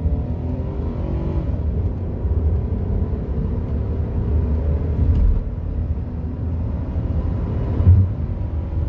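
Nissan Maxima's V6 engine with its automatic gearbox under full-throttle acceleration, heard inside the cabin over road rumble. The engine pitch climbs steadily and drops back at the upshifts, about a second and a half in and again about five seconds in. A short low thump comes about eight seconds in.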